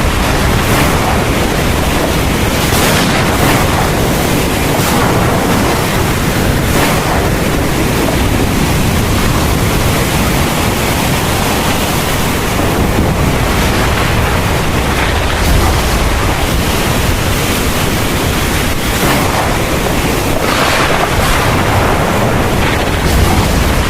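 Heavy thunderstorm rain pouring steadily, a dense hiss with a deep low rumble underneath.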